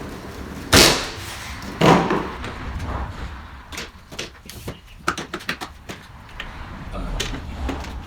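Two loud clunks about a second apart, then a run of lighter clicks and knocks: the EGO cordless mower being folded up and handled for storage.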